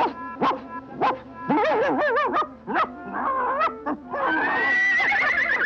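A cartoon dog barking in short sharp barks about twice a second, then giving wavering yips and whines, with a long warbling cry near the end.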